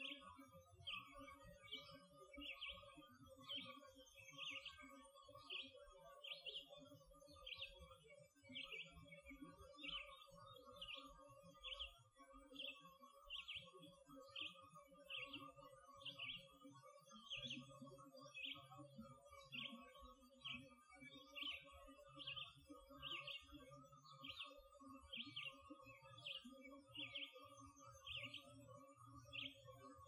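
Faint bird song: a single bird repeating one short, high chirp about one and a half times a second, very evenly, with a faint steady hum underneath.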